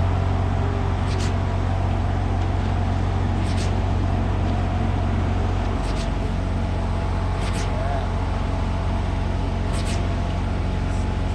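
Diesel engine of a truck-mounted concrete boom pump running steadily under load while it pumps concrete. A short, sharp hiss repeats about every two seconds over the engine.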